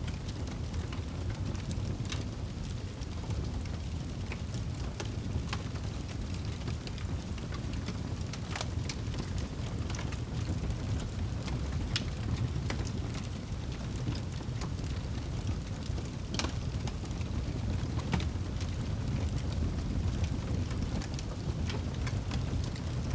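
Wood fire burning in a fireplace: a steady low rumble of the flames with irregular sharp crackles and pops every second or two.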